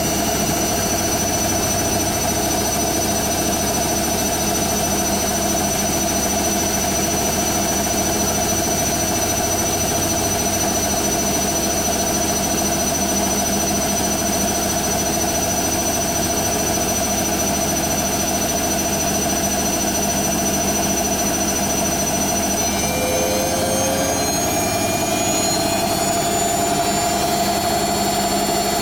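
Hoover Nextra HNL71463D washing machine on its final spin, the drum turning fast with a steady motor whine and hum. Near the end the whine shifts and starts to rise a little as the spin speed climbs.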